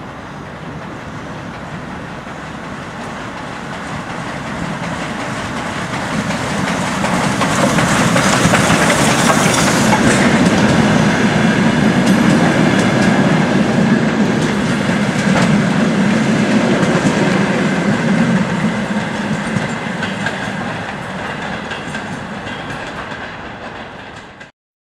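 A passenger train rolling past, its wheels clattering over the rail joints. It grows louder, stays loud for about ten seconds, then fades, and cuts off suddenly near the end.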